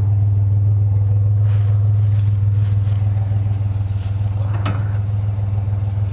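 Truck engine running with a steady low hum, with some light rattling and a single knock about four and a half seconds in.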